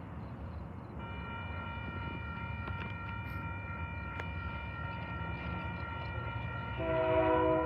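Railroad crossing bell ringing steadily from about a second in, over the low rumble of an approaching freight train. Near the end the locomotive's horn sounds one short blast, the loudest thing here.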